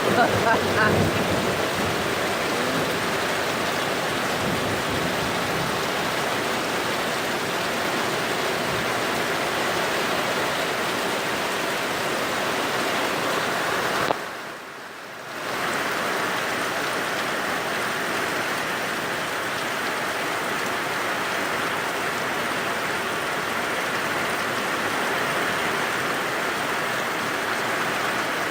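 Heavy rain pouring down in a steady downpour, an even hiss throughout, with a short dip in level about halfway through.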